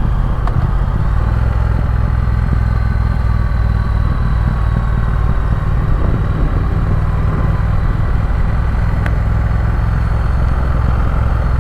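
Triumph Speed Twin parallel-twin engine running steadily on a downhill mountain road, under heavy low wind rumble on the camera's microphone.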